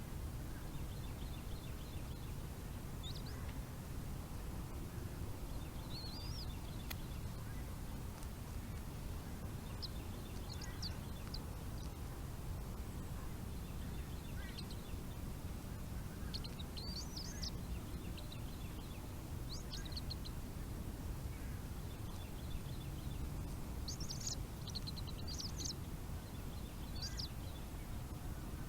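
Short, high-pitched bird chirps, a few at a time at irregular intervals, over a steady low rumble of wind-like noise.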